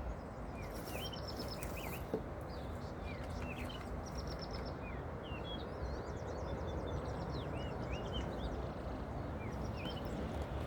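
Birds chirping and trilling repeatedly over a steady background rumble, with a single short click about two seconds in.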